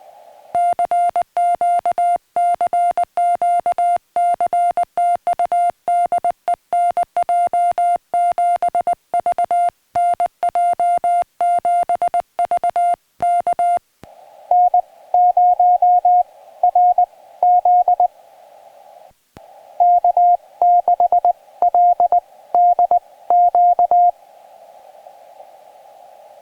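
Morse code on a portable ham radio: first the transceiver's sidetone as the operator sends, one clean mid-pitched tone keyed fast and evenly. About halfway through it changes to receive: a narrow band of hiss from the receiver's CW filter, with another station's Morse reply keyed through it in short groups.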